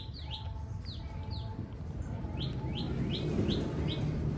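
Bird chirping: short, high chirps that fall in pitch, a few a second, with a brief pause partway through. A low rushing noise grows louder under them from about halfway in.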